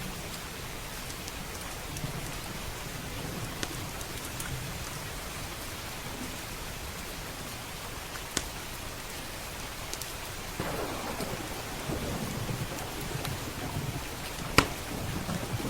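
Steady heavy rain, with a low roll of thunder swelling in about two-thirds of the way through. A few sharp single pops of a crackling log fire stand out, the loudest near the end.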